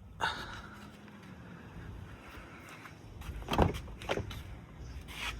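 Latch click and knocks inside a 2024 Chevy Silverado Z71's cab, with one loud thump about three and a half seconds in and a lighter knock just after it, over a low steady hum.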